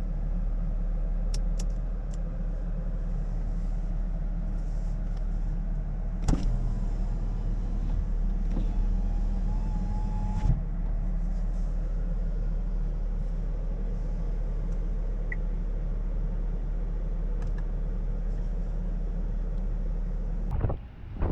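The Chevrolet Camaro RS's 3.6-litre V6 idling with a steady low rumble, with a couple of sharp clicks partway through.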